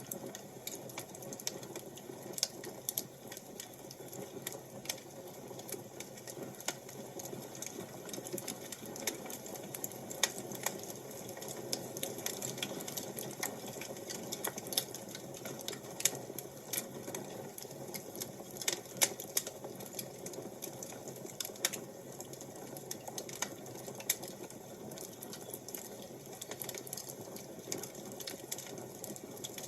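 Fire crackling: irregular sharp pops and snaps over a steady low hiss.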